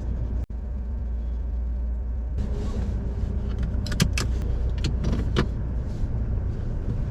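Vehicle running on the road, heard as a steady low rumble of engine and road noise, with a few sharp clicks and knocks between about four and five and a half seconds in.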